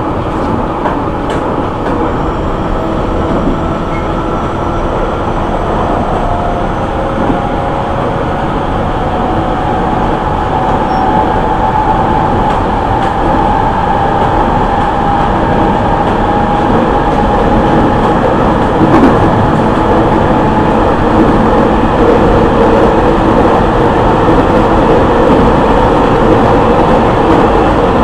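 JR East E501 series electric train running, heard inside a motor car at the car end: wheel-and-rail rumble with the tones of its original Siemens VVVF inverter and traction motors drifting slowly in pitch, getting gradually louder.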